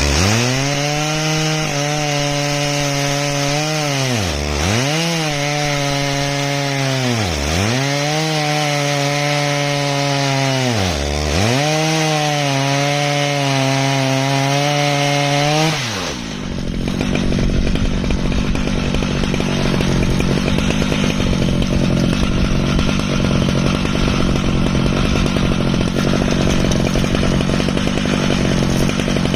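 Stihl MS881 two-stroke chainsaw running in an Alaskan chainsaw mill, cutting an ash log. For the first half its engine note is steady but dips sharply and recovers three times; about halfway through it changes to a rougher, noisier sound that holds to the end.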